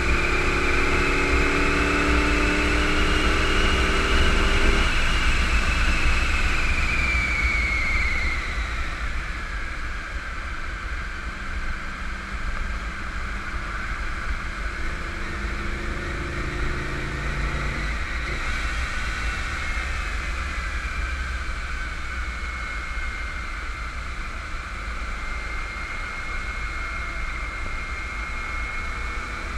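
1991 Camaro Z28 1LE's 305 TPI V8 heard from inside the car on a track lap: it pulls hard with rising revs for about the first five seconds, lifts off as the car slows, then runs a shorter pull in the middle before easing off again. A high whine climbs and falls with the car's speed over tyre and wind noise.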